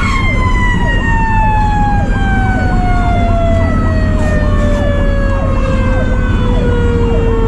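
Fire truck's Federal Q mechanical siren winding down in one long, slowly falling wail after peaking at the start. Under it an electronic siren yelps about twice a second, over the truck's steady engine and road rumble.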